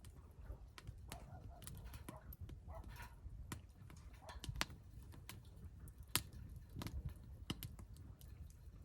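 Wood fire crackling in a Solo Stove fire pit: irregular sharp pops and snaps over a low steady rumble, with the loudest pop about six seconds in.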